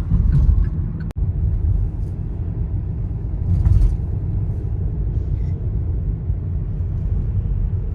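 Steady low rumble of a car driving, road noise heard from inside the car.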